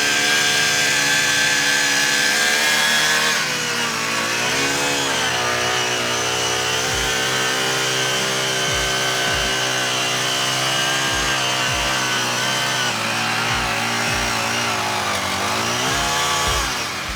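Small petrol engine running steadily with an even buzz, its pitch sagging and recovering twice as if briefly loaded, once a few seconds in and again near the end.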